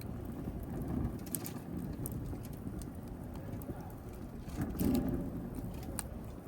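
Wood fire burning in a fireplace: a steady low rush of flames with sharp crackles and pops scattered through it, and a brief louder surge of the flames about five seconds in.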